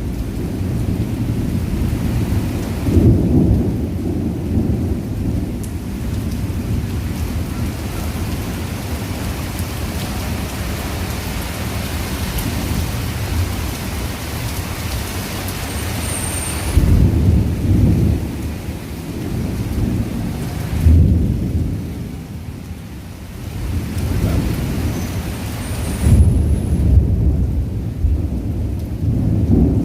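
Heavy rain falling during a thunderstorm, with low thunder rumbling underneath and swelling louder several times. The rain hiss is stronger in the first half.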